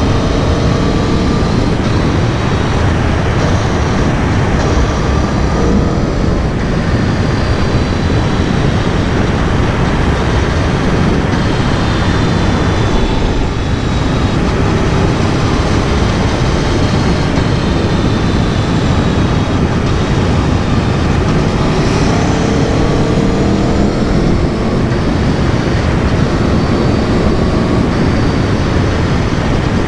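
The 2022 Aprilia Tuono V4 Factory's V4 engine under way, its pitch rising and falling repeatedly with the throttle, half buried under heavy wind and road rush.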